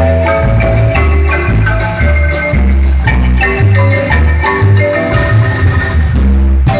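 Guatemalan marimba band music: struck marimba notes play a lively melody over a strong, shifting bass line.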